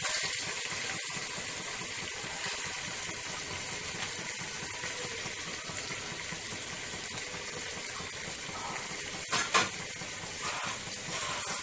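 Chicken pieces sizzling in hot oil with ginger-garlic paste in a pot as they are seared, a steady hiss. Two quick knocks near the end.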